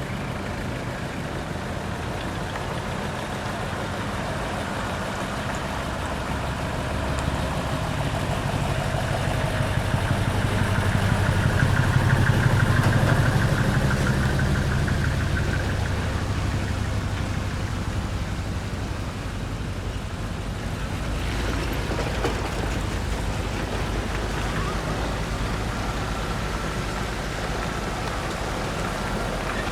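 Heavy diesel truck engine running as an art truck drives out, growing louder and lower to a peak about twelve seconds in, then easing back to a steady idle-like hum.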